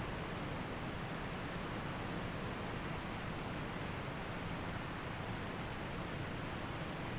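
Waterfall, a steady, even rush of falling water with no breaks.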